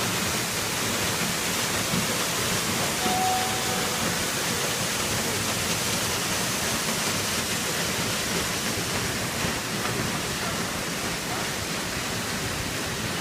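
Small waterfall rushing steadily, water pouring into a pool.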